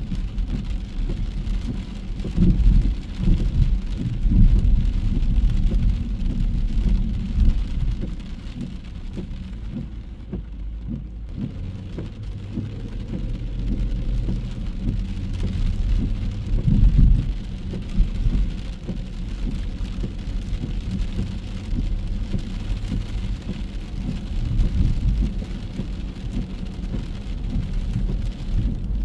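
Rain falling, a steady hiss over a heavy, uneven low rumble that swells and eases.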